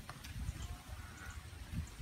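A person chewing food with faint wet mouth clicks, over low rumbling.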